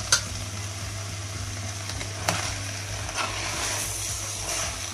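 Dried white beans with sucuk and tomato paste sizzling as they are sautéed in a stainless steel pot while being stirred, the spoon clinking against the pot a few times, most sharply at the start and a little past two seconds in.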